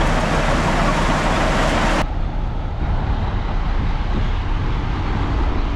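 Heavy diesel earthmoving machinery running steadily. A loud hissing, clattering layer cuts off abruptly about two seconds in, leaving a duller engine sound.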